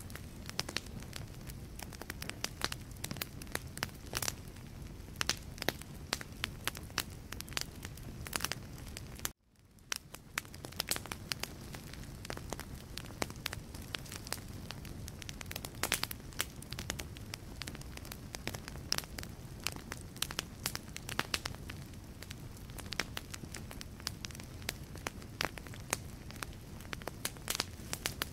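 Wood fire burning in a fireplace, crackling and popping with many sharp snaps over a steady low rumble of flame. About nine seconds in the sound cuts out for a moment and fades back in.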